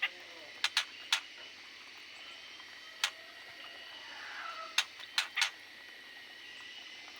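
Aviary birds giving short, sharp chip calls, about eight of them scattered irregularly, with one faint falling call near the middle, over a steady faint high-pitched tone.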